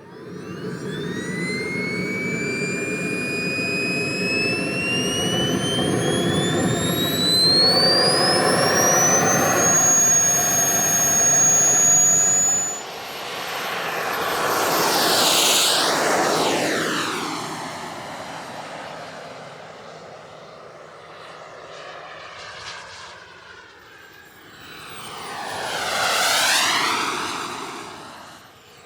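KingTech 210G5 turbine in a CARF Diablo RC jet spooling up, its whine rising steadily in pitch for about ten seconds and then holding at full power. After a sudden break, the jet makes two passes, each swelling and fading away.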